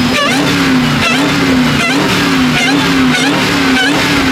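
Car engine revving hard, its pitch rising and falling in a quick, even cycle, a bit under twice a second, as a car is held on the throttle during a burnout at a car meet.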